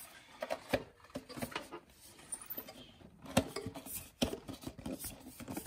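Handling noises of air filter elements and plastic air-box parts: scattered light knocks and rubbing, with a few sharper clicks.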